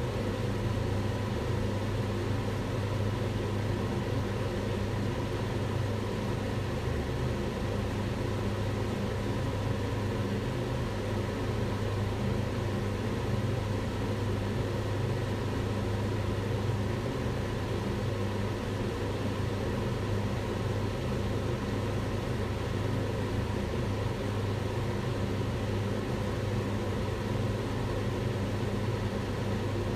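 Kitchen range hood fan running steadily: a whooshing air noise over a low motor hum, unchanging throughout.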